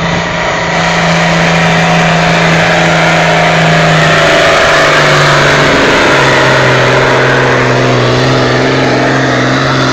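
A pulling vehicle's engine running flat out under the load of a weight-transfer sled. It is loud and steady, and its pitch drops in two steps, about four and about six seconds in, as the sled bogs it down.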